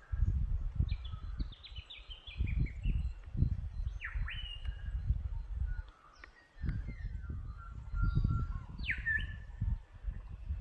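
Wild birds calling: a quick run of short falling notes, then sharp downward-swept calls about four and nine seconds in. Under them is a gusty low rumble of wind on the microphone, louder than the birds, which drops away briefly past the middle.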